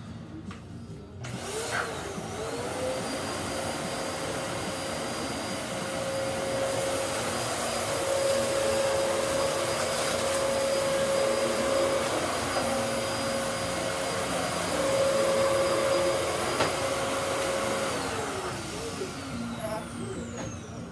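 Vacuum cleaner switched on about a second in, its motor whine rising to a steady pitch, running steadily, then switched off near the end and winding down with a falling whine.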